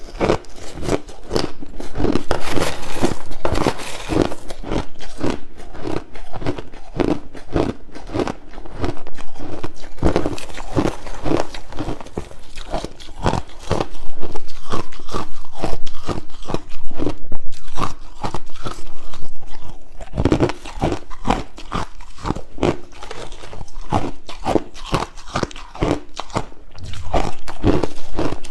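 Crushed ice bitten and chewed close to the microphone: a steady, rapid run of crisp crunches, loudest in a stretch about halfway through.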